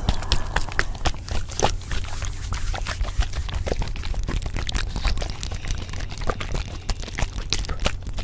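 Layered ASMR sound bed: dense, irregular crackling and clicking over a steady low rumble.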